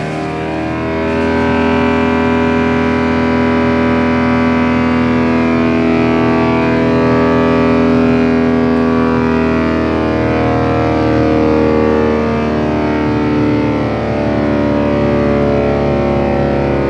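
Wood chipper running steadily: a continuous droning hum made of many stacked tones, wavering slightly in pitch.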